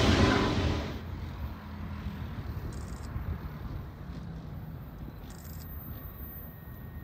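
Loud rushing noise that dies away in the first second, then the quiet, steady low rumble of a distant diesel freight train approaching down the line.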